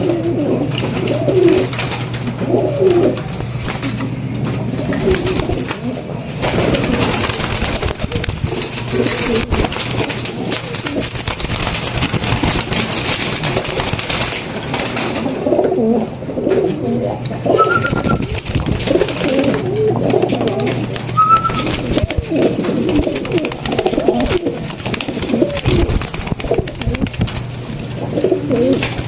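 Domestic pigeons cooing, several calls overlapping in repeated bouts, over a steady low hum.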